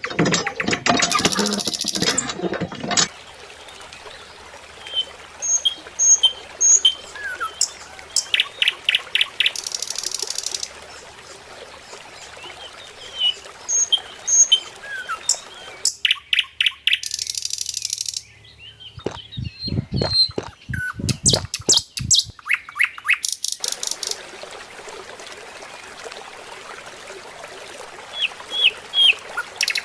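Small birds chirping in short, high calls, with several runs of rapid sharp clicks or taps in between, the loudest run about two-thirds of the way through.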